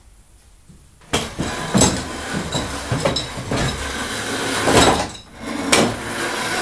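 Metal hardware clinking and rattling against wood, with scraping and repeated knocks. It starts about a second in and carries on unevenly.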